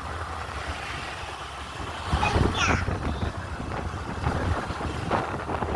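Steady low rumble of a moving vehicle, with a brief high-pitched voice cutting in about two seconds in.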